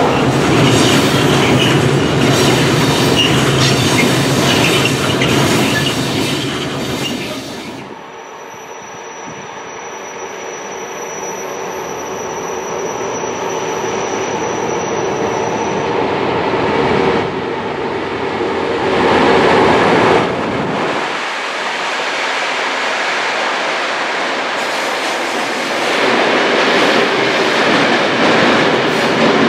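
Freight trains rolling by on the rails. First a container-wagon train passes close with dense wheel and rail noise that cuts off about eight seconds in. Then a tank-wagon freight train approaches and grows steadily louder as its wagons roll past with wheel clatter, and a thin high steady tone can be heard for several seconds.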